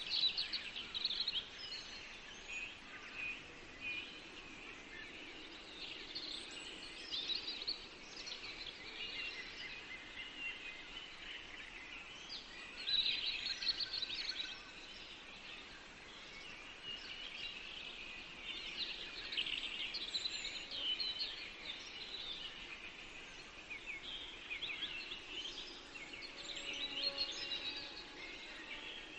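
Several birds singing and calling at once in a forest, overlapping quick chirps and trills, with louder bursts now and then over a faint background hiss.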